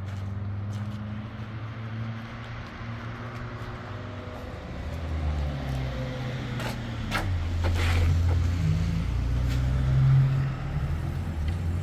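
Vehicle engine running with a low hum that shifts in pitch, with a few sharp knocks or rattles around the middle.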